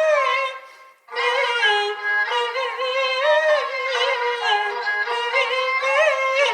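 Peking opera music: a high bowed-string melody, sliding and ornamented, breaks off briefly about a second in and then picks up again.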